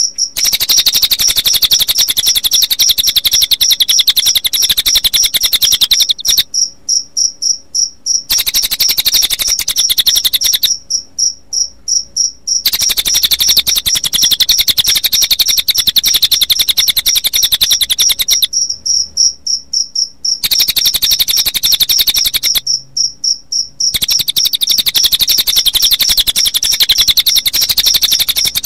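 Recorded cililin bird song mixed with cricket chirping: a loud, fast, high pulsing trill that breaks off for a second or two four times. A fainter, higher pulsing carries on through some of the breaks.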